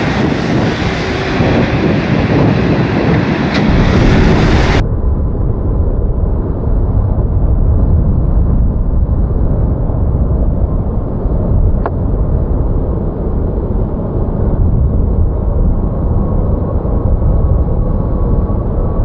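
Strong typhoon wind buffeting the microphone in a heavy low rumble. A broad roar over it cuts off abruptly about five seconds in, leaving a duller rumble.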